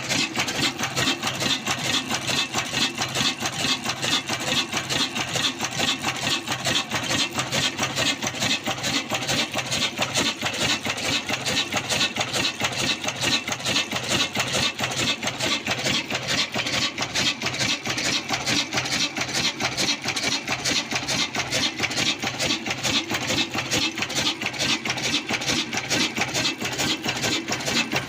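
Old black single-cylinder desi diesel engine running steadily under load as it drives an aata chakki flour mill, with a fast, even mechanical beat.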